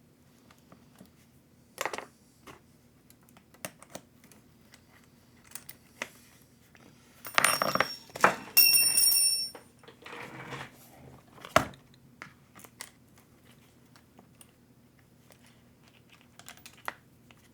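Small parts being handled and sorted: scattered light clicks and taps, with a louder stretch of rustling and rattling about halfway through that carries a brief high ringing tone. A low steady hum runs underneath.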